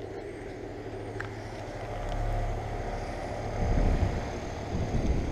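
Outdoor air-conditioner condenser units running with a steady low hum. A rougher low rumble swells about two seconds in and again near the end.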